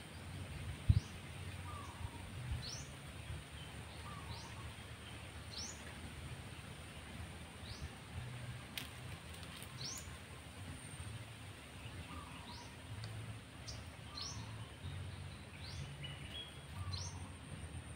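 Outdoor ambience: a bird repeats short rising chirps every second or two over a low, steady rumble and a faint steady high whine. A single sharp thump about a second in is the loudest sound.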